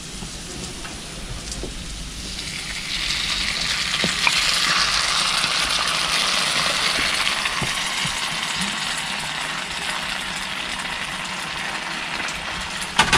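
Sweet chili sauce sizzling in a large hot wok, the sizzle swelling about two seconds in and slowly easing off, with a knock near the end.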